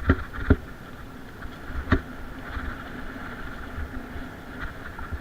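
Mountain bike rolling over a rough trail: a steady rolling noise with three sharp knocks in the first two seconds as the bike hits bumps.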